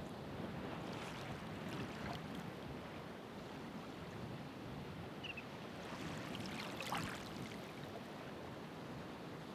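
Ocean waves washing in a steady rush, with brief splashes about a second in and a louder splash about seven seconds in.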